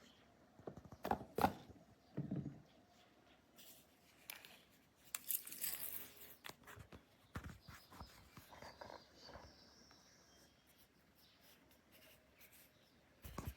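Faint, scattered clicks and short rustles of handling noise, with a brief hissing scrape about five seconds in.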